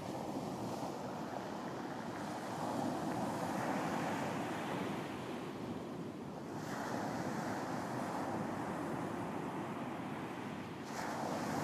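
Surf on a beach: waves breaking and washing up the shore in a steady rush, with a fresh surge about every four seconds.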